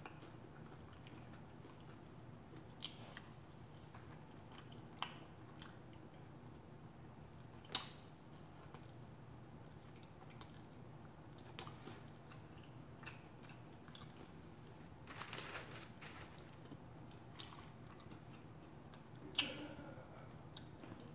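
Faint eating sounds from a mouth working on fried lemon pepper chicken wings and french fries: quiet chewing with a scattering of short sharp clicks and smacks, over a steady low hum.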